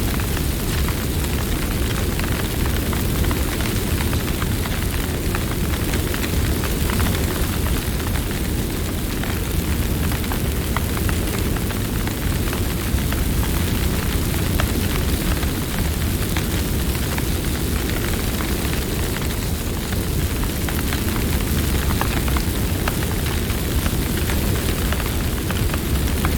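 Campfire burning: a steady low rumble of flames with frequent short crackles and pops from the burning wood.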